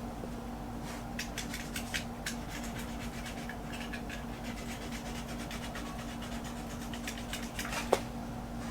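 Hand tools and engine parts being handled: scattered light clicks and rattles, with a sharper knock near the end, over a steady low hum.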